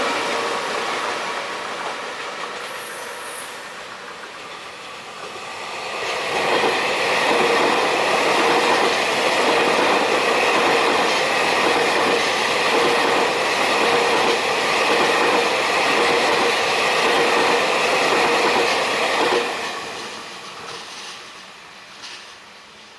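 A train dying away, then a second train passing close for about thirteen seconds, its wheels clattering rhythmically over the rail joints with a steady high whine, before it fades away.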